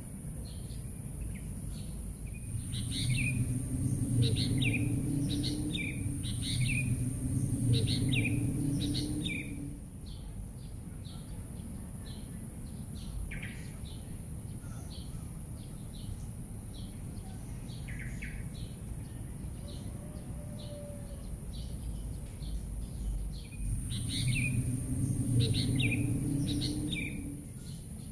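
Birds calling in trees: a quick series of sharp, falling calls repeated over several seconds a couple of seconds in and again near the end, with short regular chirps about once or twice a second in between. A steady high-pitched hiss runs underneath, and a low hum swells along with the louder calling.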